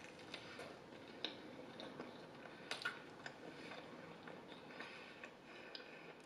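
Faint close-mic chewing of a mouthful of sourdough pizza crust: soft, wet mouth clicks and smacks scattered throughout, with a few sharper ones about a second in and near the three-second mark.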